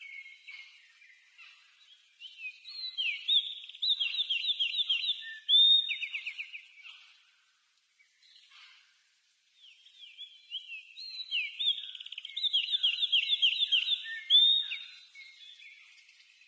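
Southern house wren (garrincha) singing: two song phrases of fast, bubbling runs of repeated sweeping notes and trills, each about four to five seconds long, with softer scattered notes before and between them.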